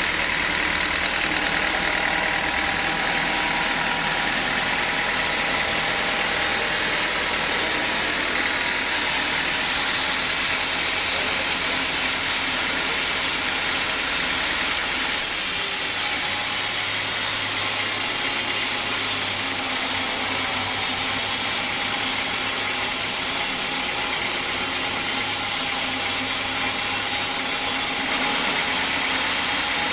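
Sawmill saw running through teak, a steady loud machine noise with a hiss. Its tone shifts abruptly about halfway through and again near the end.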